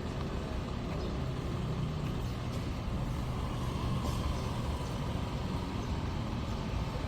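Steady road traffic noise: motor vehicles running and passing, mostly a low rumble with no sharp events.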